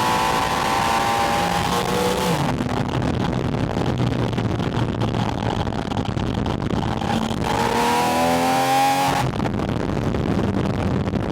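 Porsche 718 Spyder RS's flat-six engine, picked up by a microphone at its air intake, pulling under acceleration with its pitch climbing until it drops off about two and a half seconds in. A stretch of wind and road rush follows, then the engine climbs in pitch again from about seven and a half seconds before dropping off once more around nine seconds.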